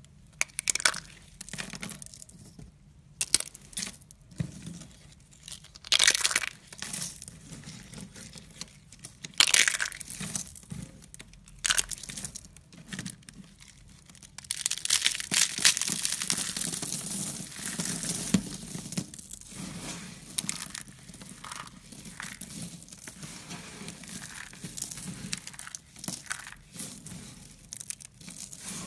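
Irregular crinkling and crunching handling noises with sharp clicks, and a denser stretch of rustling about halfway through.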